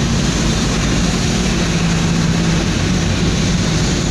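Truck engine running steadily at cruising speed, heard from inside the cab as a low drone over a constant hiss of road noise.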